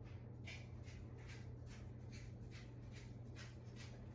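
Faint soft brushing or scratching strokes, a few a second, over a steady low hum.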